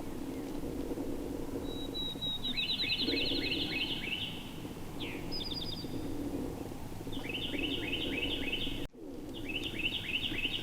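A songbird singing three phrases of rapid repeated high notes, about eight a second, over a steady low background noise.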